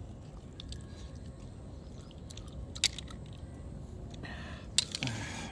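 A person chewing clams close to the microphone. Two sharp clicks come about two seconds apart, the second one louder and near the end, amid a brief rustle.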